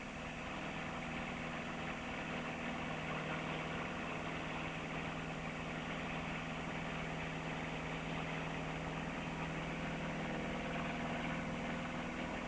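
A steady, unchanging engine drone with a low hum held at one pitch.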